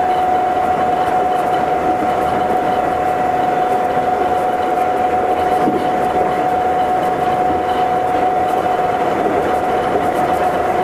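Astram Line 7000-series rubber-tyred automated guideway train running at a steady speed, heard from inside the car: a continuous running rumble with a steady whine held at one pitch.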